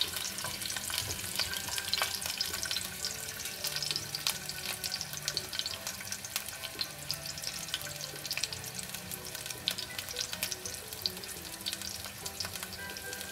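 Ginger slices and dried hot peppers frying in hot oil in a pan, a steady sizzle full of small crackling pops, stirred with a spatula at first. The oil is being heated with the aromatics to draw out their flavour.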